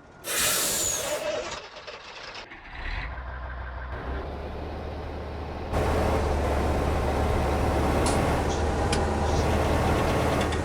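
A truck's air brakes release with a loud, sharp hiss lasting about a second. The truck's engine then comes in low and steps up to run loudly from a little past halfway.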